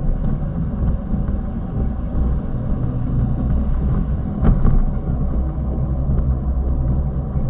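A vehicle's engine and road noise rumbling steadily while driving, with a single sharp knock about halfway through.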